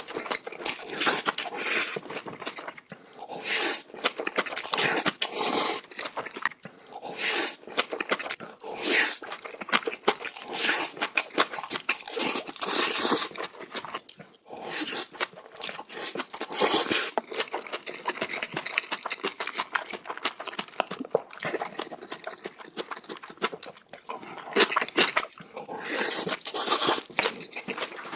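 Close-miked eating of bibimbap: chewing, crunching and wet mouth sounds in irregular bursts, with occasional spoon scrapes.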